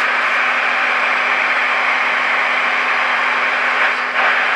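Static hiss from the speaker of a Marconi model 2004 seven-transistor radio as its dial is tuned near 1600 kHz, searching for the signal generator's test tone during alignment. A steady loud hiss with a faint low hum under it.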